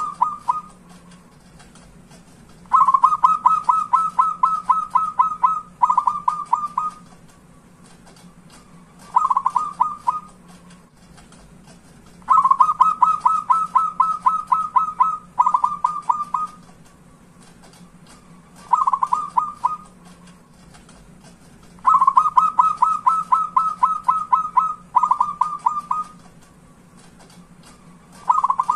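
Zebra dove (perkutut) cooing song: a short phrase of quick notes, then a long run of rapid staccato coos ending in a shorter run. The same sequence comes round about every nine to ten seconds, three times, over a faint steady hum.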